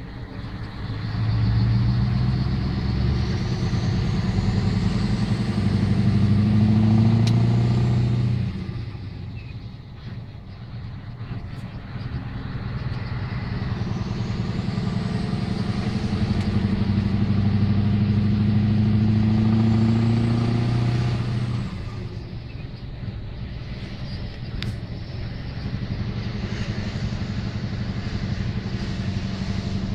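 Scania 164L's 16-litre V8 diesel engine revved up twice, each time held for several seconds with its pitch slowly creeping up and a faint rising whine above it, before dropping back to a steady lower idle.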